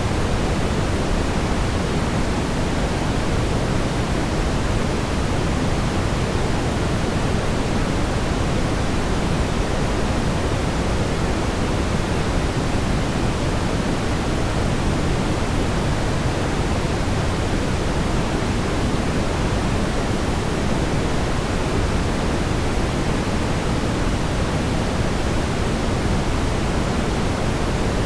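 Steady synthetic brown noise: an even, unchanging rumbling hiss, strongest in the low end and fading toward the top.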